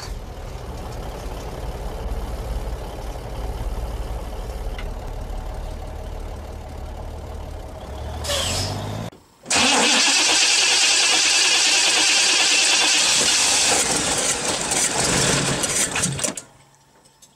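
A 1985 Chevrolet Caprice's engine running with a steady low rumble, swelling briefly about eight seconds in before cutting off. A moment later comes a much louder, steady rushing hiss lasting about seven seconds, which ends abruptly.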